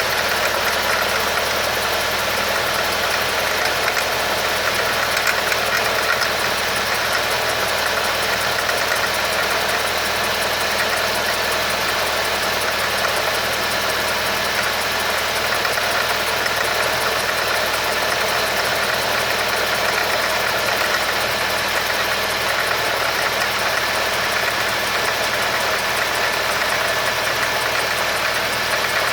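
Audi A4 B6's 2.0-litre ALT four-cylinder petrol engine idling steadily just after a cold start, making the odd noises whose cause its owner is asking about.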